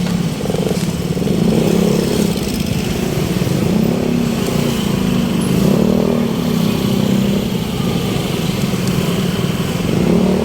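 A motor vehicle engine running amid street traffic, its low hum wavering in pitch.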